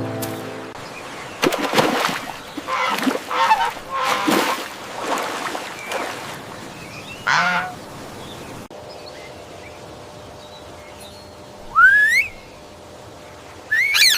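Geese honking: a run of loud, harsh honks, then after a break two short calls that rise in pitch. A brief musical chime sounds at the very start.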